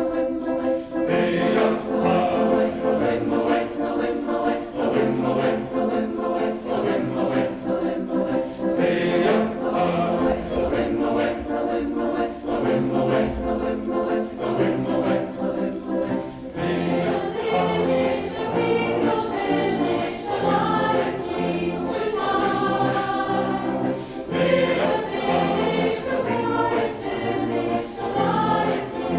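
Choir singing in harmony, with low bass notes held beneath the voices; the sound grows brighter about halfway through.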